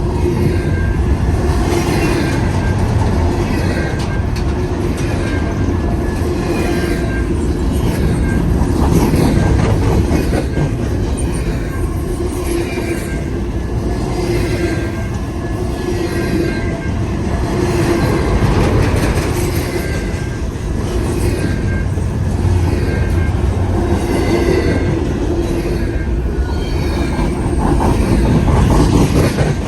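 Long CN intermodal freight train rolling past: a steady loud rumble of the cars with the wheels clattering over the rail in a pattern that repeats about once a second.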